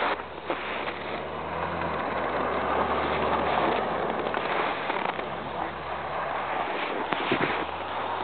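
Car engine running steadily under power as the car slides sideways through deep snow, over a steady hiss. There are a few sharp clicks near the start and again after about seven seconds.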